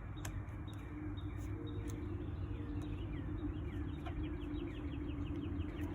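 Birds chirping, with a rapid run of short falling chirps from about halfway, over a steady low hum and a few faint clicks.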